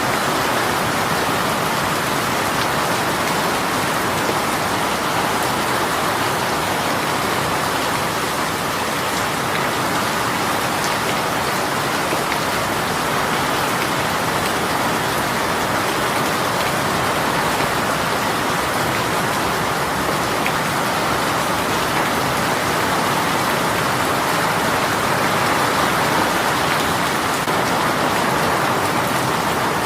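Steady heavy rain shower, a dense even hiss of rain falling on a surface with fine drop patter.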